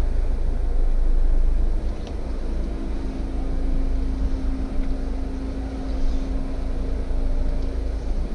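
Jeep engine running at low revs with a steady low rumble while crawling over rock on an off-road trail; a steady hum comes in about two and a half seconds in.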